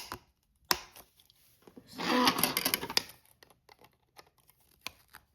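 Handling of plastic toy barn pieces: two sharp clicks in the first second, then scattered light ticks and knocks.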